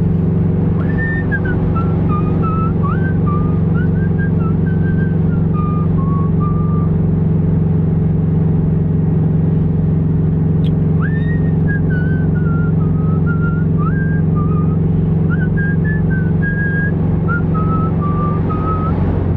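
Steady drone of a Subaru WRX's engine and road noise heard inside the cabin while driving. Someone whistles a tune over it in two phrases, the first starting about a second in and the second about halfway through.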